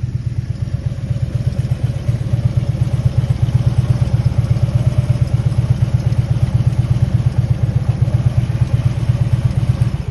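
Harley-Davidson V-twin touring motorcycle idling at a standstill in neutral, a steady, loud, fast-pulsing beat, then switched off about ten seconds in, the sound cutting off suddenly.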